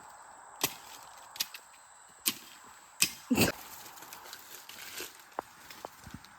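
Scattered sharp clicks and knocks, with a brief murmur of a voice a little past three seconds in.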